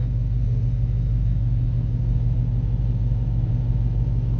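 Dodge Hellcat's supercharged 6.2-litre V8 idling steadily, a low even drone with no revs.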